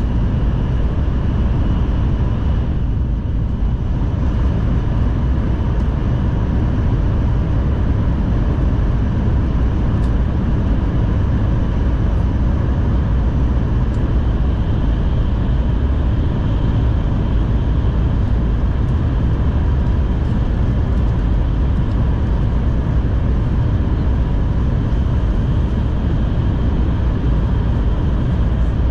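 Cabin noise of a Nishi-Kyushu Shinkansen Kamome train running along the line: a loud, steady low rumble with faint steady whining tones over it.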